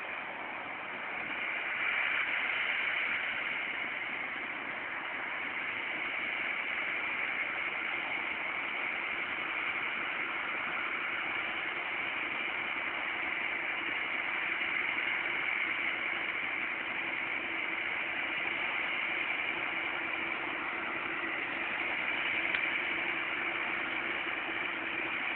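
John Deere 6930's six-cylinder diesel engine running steadily while the tractor pulls a four-furrow plough.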